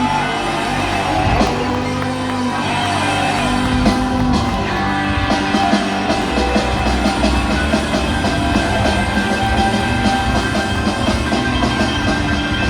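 Live rock band playing: electric guitar lead lines with bent notes over bass and drums, the drumming growing denser about four seconds in.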